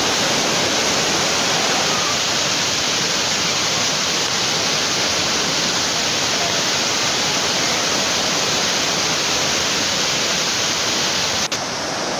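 Waterfall: a steady, loud rush of falling water. About eleven and a half seconds in it dips for an instant, then carries on a little softer and duller.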